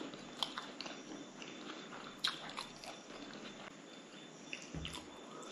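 Faint, scattered mouth clicks and smacks of a person chewing, with light taps and a soft knock from a plastic bowl being handled; the sharpest click comes a little over two seconds in.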